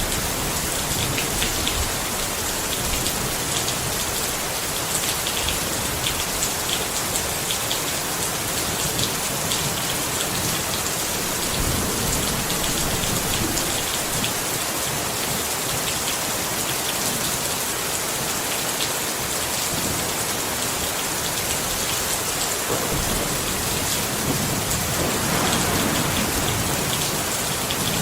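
Steady rain pattering on a tent, a dense, even hiss of many small drops. A brief swell rises near the end.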